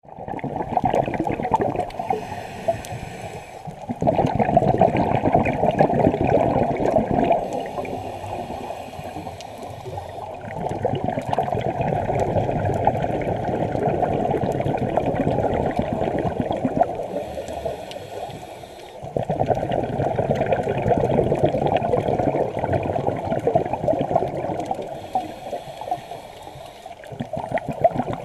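Scuba diver's own breathing through a regulator, heard underwater: quieter hissing inhalations alternating with long, loud gurgling rushes of exhaled bubbles, four slow breaths in all.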